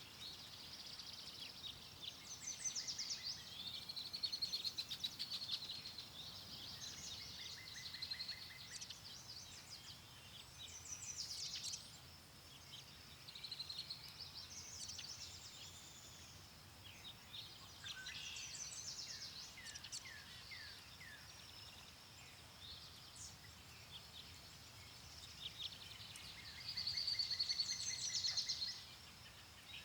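Several songbirds singing and chirping at once, with repeated trills and short whistled phrases throughout, the loudest trill near the end, over a faint low background hiss.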